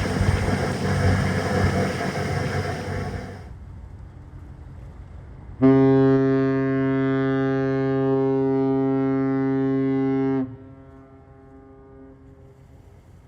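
A ship's horn sounding one long, steady blast of about five seconds: a deep tone with many overtones that cuts off sharply and leaves a faint echo. Before it, loud mixed noise stops about three seconds in.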